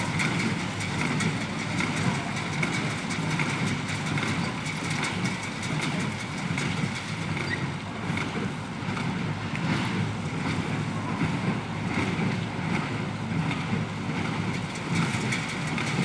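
Ford 5000 tractor engine running steadily under load, driving a New Holland BC5060 square baler whose working mechanism clatters along with it.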